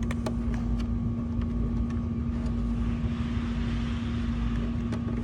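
Steady low mechanical hum and rumble, like a running engine or machine, with a few light clicks.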